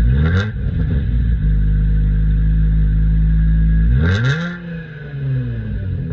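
Hyundai Tiburon engine idling after a cold start and being revved twice: a quick blip at the start, then a bigger rev about four seconds in that falls back slowly to idle.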